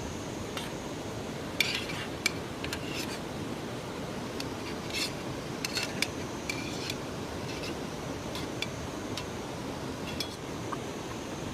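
Irregular short scrapes and light clinks of small hard objects, a dozen or so spread through the middle of the stretch, over a steady rushing hiss.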